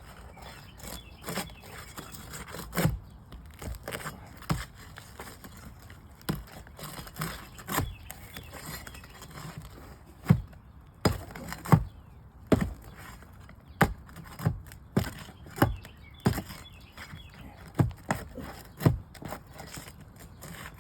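Tools working under asphalt roof shingles to free roofing nails: a string of sharp knocks with some scraping, scattered at first and then coming about once a second over the second half.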